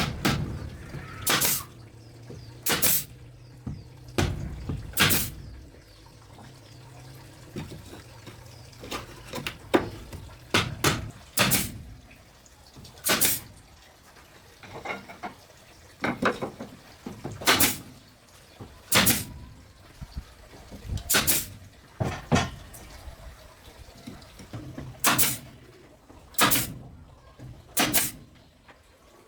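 Repeated sharp knocks at irregular intervals, roughly one every second or two.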